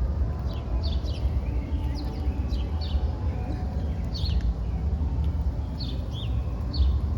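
Small birds giving short, high, downward-sliding chirps, several scattered irregularly, over a steady low rumble of background noise.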